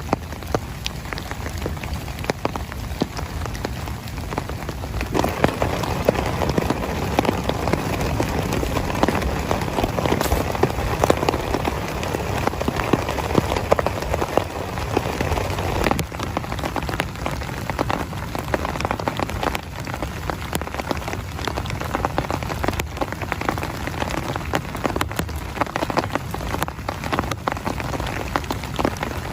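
Heavy rain falling on a tent, a steady hiss of rain with many separate drop hits close by. It grows heavier about five seconds in and eases back after about sixteen seconds.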